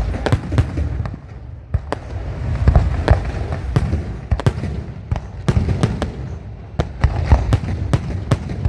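Fireworks display: a rapid, irregular series of sharp bangs and crackles over a continuous low rumble of shell bursts, with a brief lull about a second in before the barrage picks up again.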